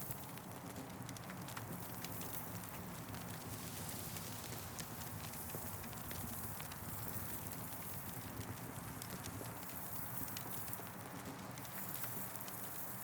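Wood fire crackling, with irregular small pops and snaps over a steady hiss.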